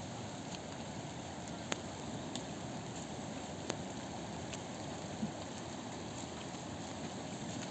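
Steady rushing water noise, as of rain and a swollen river, with a few sharp ticks, two of them standing out about two seconds apart.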